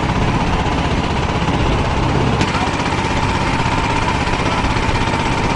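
A small engine running steadily close by, with a fast, even firing rhythm and a steady whine.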